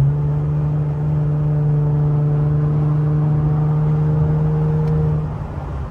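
Infiniti Q50's twin-turbo V6 pulling hard under acceleration during a highway pass. The engine note steps up at the start, holds steady for about five seconds, then falls away near the end as the throttle is eased.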